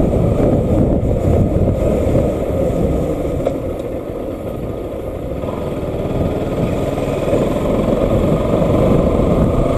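Bajaj Pulsar NS200's single-cylinder engine running as the motorcycle is ridden, a steady rushing drone that eases off about four seconds in and builds again toward the end.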